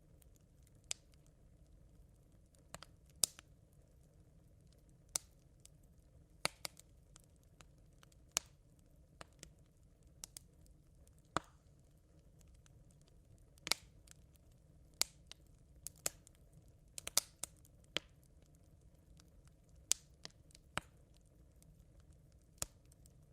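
Smouldering campfire coals crackling: sparse, irregular sharp pops and ticks over a low steady hiss.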